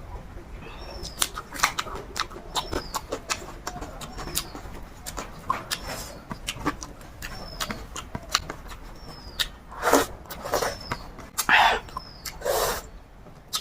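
Close-up eating sounds: a person chewing chicken feet and rice, with many short wet smacks and clicks and a few louder slurping mouthfuls near the end. A small bird chirps faintly in the background about once a second.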